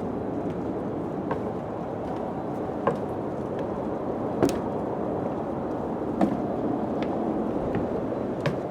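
Steady wind blowing, with a few scattered sharp ticks and knocks at uneven intervals.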